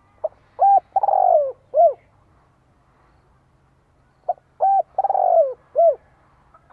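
Spotted dove cooing: two song phrases about four seconds apart, each a short lead-in note, then a longer note sliding down in pitch, and a closing note.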